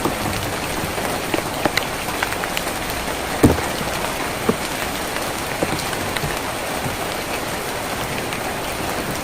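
Steady rain falling on a tin roof: an even hiss with scattered louder drops striking the metal, the heaviest knock about three and a half seconds in.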